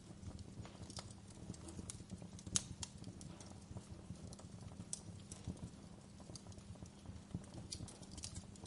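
Wood fire crackling in a fireplace: irregular sharp pops and snaps, the loudest about two and a half seconds in, over a low steady rumble.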